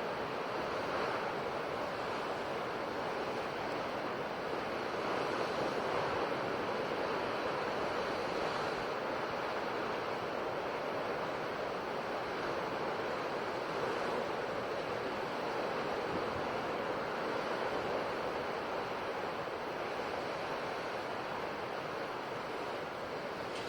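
Sea waves washing continuously onto a shore, a steady surf that swells and eases gently every few seconds.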